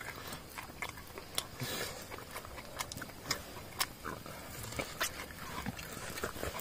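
A person chewing and biting barbecued chicken off a metal skewer, with irregular small sharp clicks.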